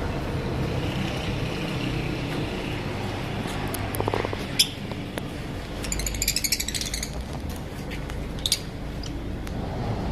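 Lovebirds giving short, shrill chirps: a single sharp chirp a little before halfway, a quick chattering run just after, and another chirp later on. A steady low hum underlies them.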